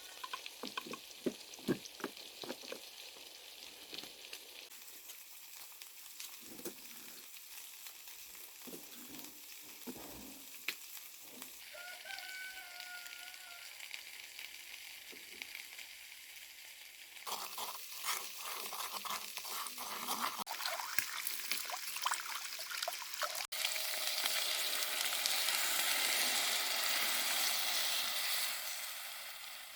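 Food sizzling as it cooks, a steady hiss with scattered clicks and knocks in the first half. The sizzle grows louder in the last few seconds, then fades away.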